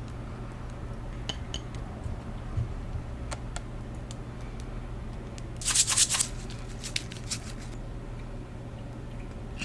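Light clicks and taps of eating utensils against a dish, with a louder burst of clatter about six seconds in, over a low steady hum.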